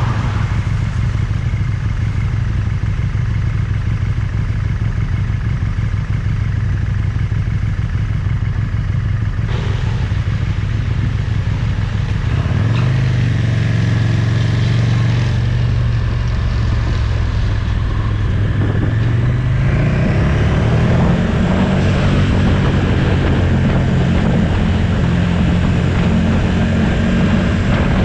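Motorcycle engine running on the road, with road and wind noise. The engine note climbs about twelve seconds in and again near twenty seconds as the bike accelerates.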